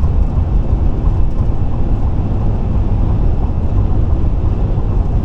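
Steady road noise of a car cruising at highway speed: tyres and engine, mostly a low rumble.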